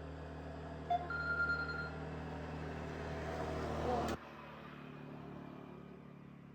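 An engine running steadily, which cuts off abruptly about four seconds in.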